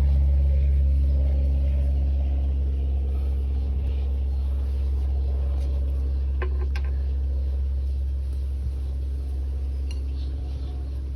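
Caterpillar D6B dozer's diesel engine idling with a steady low hum, growing slightly quieter, with a couple of short clicks about two thirds of the way through.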